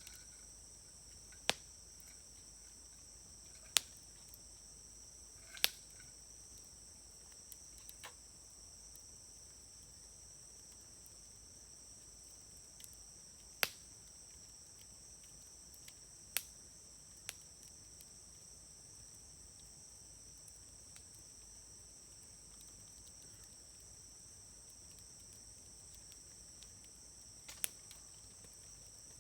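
Wood fire in a fire grill burning quietly, with about eight sharp pops and snaps from the burning wood at irregular intervals of a few seconds. Crickets chirr steadily and high-pitched behind it.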